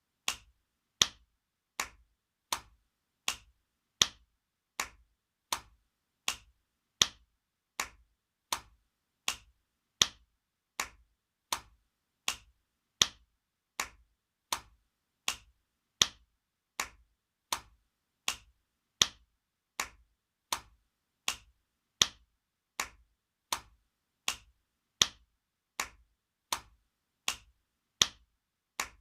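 Spanking sound effect: sharp slaps repeating about every three quarters of a second, some strokes louder than others.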